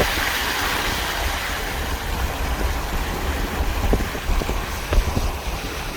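Freight train rolling past with a steady rumble and a few short knocks from the wheels, wind buffeting the microphone.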